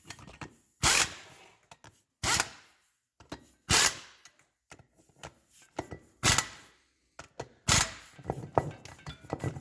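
Impact wrench with a 14 mm socket run in about five short bursts, driving in front brake bolts that were started by hand.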